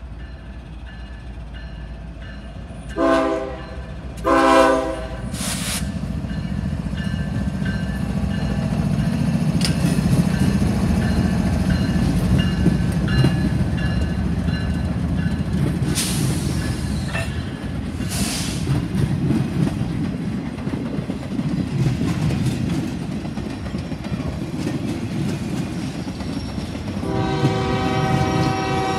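Norfolk Southern freight train led by GE ES40DC diesel locomotive No. 7601 passing close by. Two short horn blasts sound about three and four and a half seconds in, then the locomotives rumble past and the freight cars roll by with a steady rumble and a few brief squeals. A horn chord sounds again near the end.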